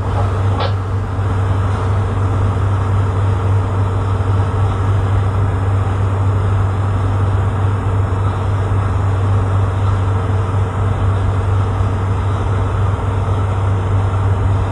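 Tugboat's diesel engine running steadily under way, a deep even hum with no change in pitch or level.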